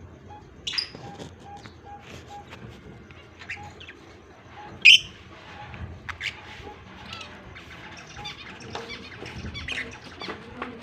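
Budgerigars chirping in scattered short, high calls, with one loud sharp call about five seconds in.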